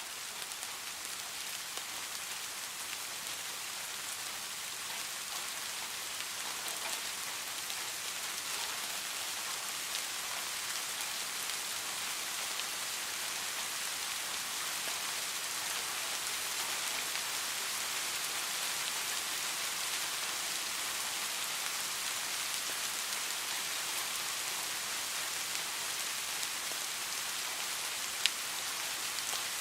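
Steady rain falling, a dense even hiss of drops that grows slightly louder over the first several seconds. One sharp click comes about a second before the end.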